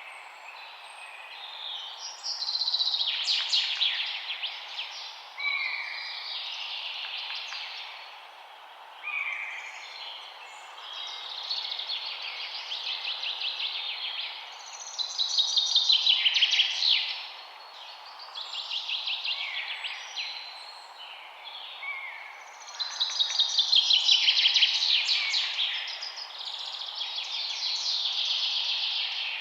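Songbirds singing: fast trilling phrases repeat every few seconds, the loudest about halfway through and again near the end, with short sliding whistled notes between them, over a steady background hiss.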